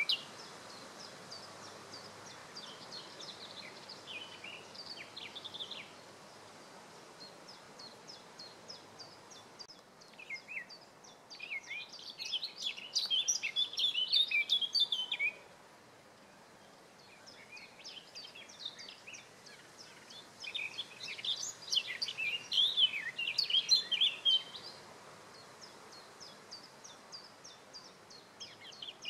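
Wild birds singing: a steady scatter of high, short chirps, with two louder bursts of rapid, tumbling song, one about ten seconds in and another about twenty seconds in.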